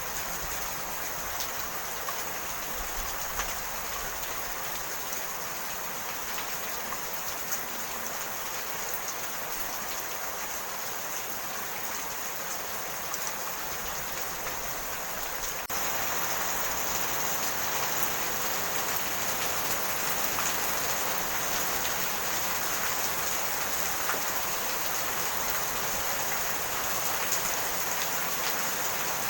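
Steady rain falling, an even hiss with scattered drop ticks. It turns abruptly a little louder about halfway through.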